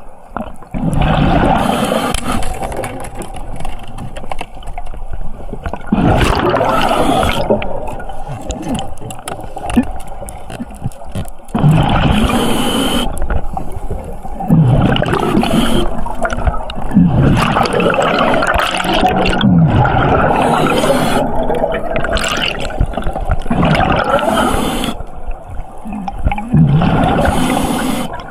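Underwater water noise and bubbling picked up by a camera in a waterproof housing, with a louder gush every few seconds.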